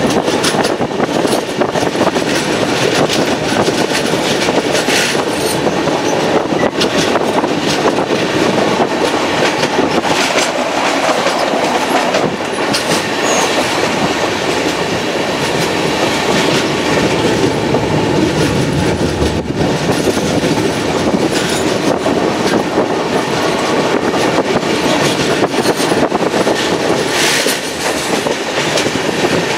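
Passenger train running at speed, heard from on board: a loud, steady rush of wheels on rails, with scattered sharp clacks.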